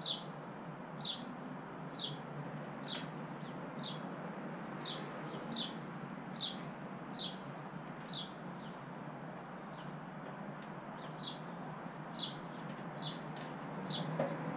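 A bird chirping over and over, each a short downward-sliding chirp, about one a second with a brief pause partway through. A steady low hum runs underneath.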